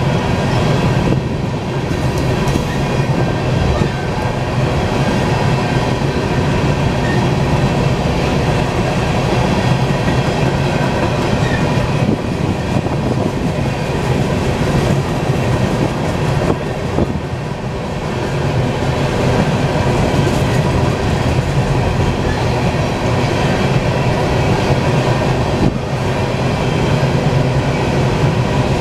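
Union Pacific coal train's gondola cars rolling past at speed: a loud, steady noise of steel wheels running on the rails and car bodies rattling, with no locomotive heard.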